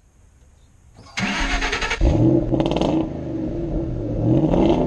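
Car engine cranked over by its starter for about a second, then catching about two seconds in and revving up, dropping back, and revving again near the end.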